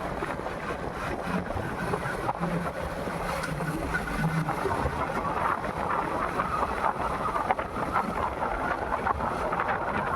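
Wind rushing over the microphone of a moving motorcycle, with the motorcycle's engine running underneath.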